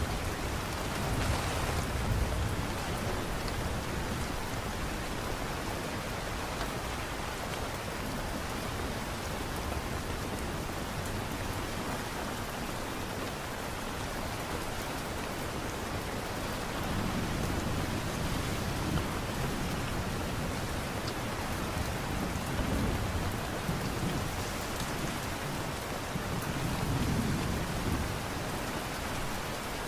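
Steady light rain falling, with a few low rumbles swelling up briefly near the start and several more in the second half.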